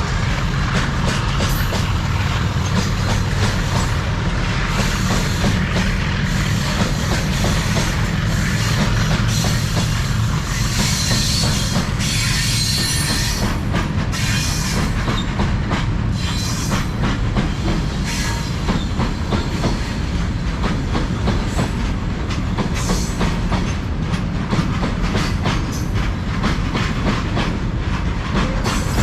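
Freight train of tank wagons rolling past with a steady low rumble and rapid clickety-clack of wheels over rail joints. Brief high-pitched wheel squeals come through around the middle.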